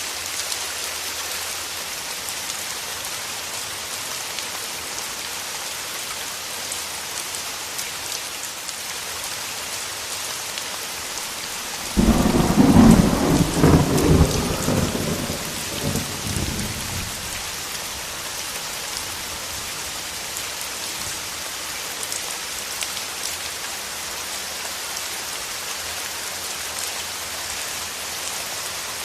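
Steady rain with a single clap of thunder about twelve seconds in, starting suddenly and rumbling away over about five seconds.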